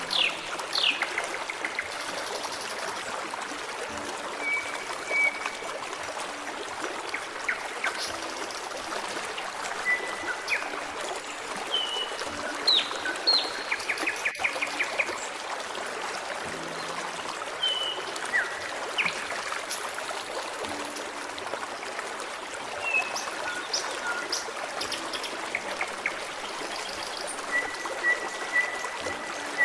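A forest stream trickling and babbling steadily, with birds calling and singing over it: short whistled notes, some held level and some quickly falling, scattered throughout.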